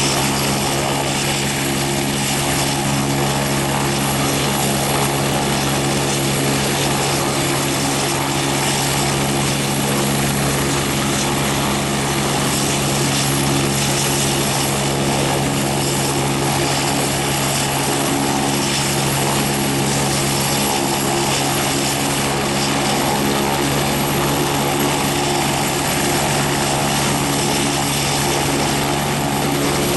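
Medical helicopter's engine and rotor running steadily at an even level, a continuous low drone with no clear change in pitch.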